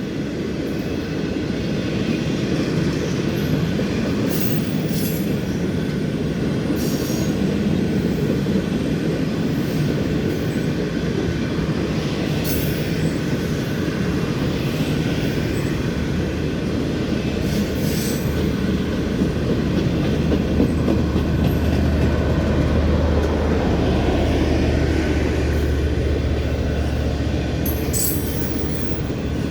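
Passenger train rolling past: a steady rumble of wheels on the rails, with brief wheel squeals here and there. A deep steady hum joins about halfway through.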